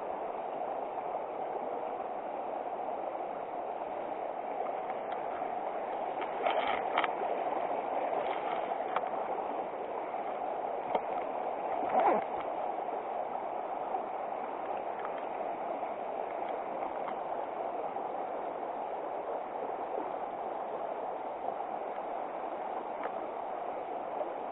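Steady rush of river water flowing over stones, with a few short knocks about six seconds in and a louder one near halfway.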